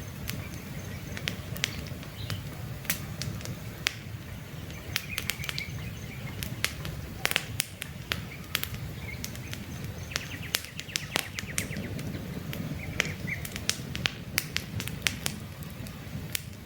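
Wood campfire crackling, with many irregular sharp pops and snaps over a low steady rumble of burning. A few faint bird chirps come through now and then.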